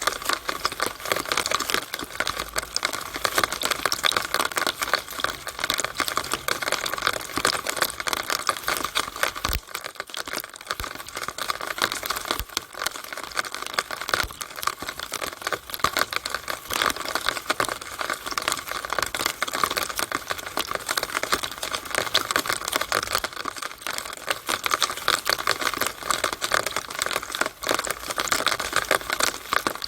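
Rainwater pouring through a downspout, a dense and steady patter of rapid, irregular drips and splashes.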